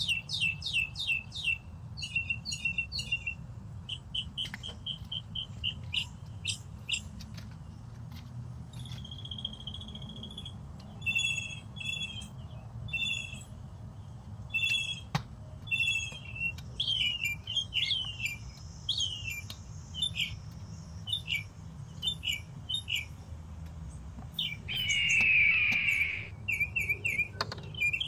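Small birds chirping, short high notes repeated in quick series, with one louder falling call about three-quarters of the way through. A steady low rumble runs underneath.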